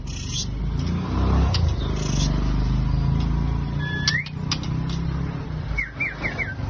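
Low, steady engine rumble of a passing motor vehicle, loudest in the first half. Over it a young white-rumped shama gives a single rising chirp about four seconds in and a quick run of four short notes near the end, with a few sharp clicks.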